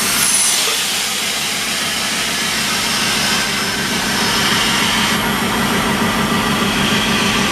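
WDM-3A diesel-electric locomotive's turbocharged ALCO 251 engine running steadily, loud and constant.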